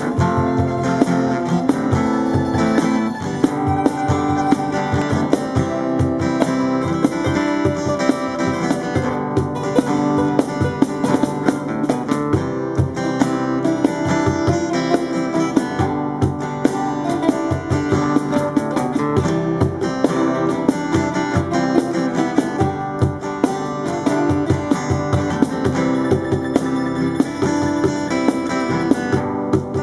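Brazilian popular music played live: acoustic guitar strummed in a quick rhythm, with plucked notes over it, continuous throughout.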